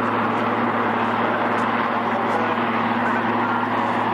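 Steady drone of a twin-engine rescue helicopter hovering, with a constant low hum under a broad rushing noise.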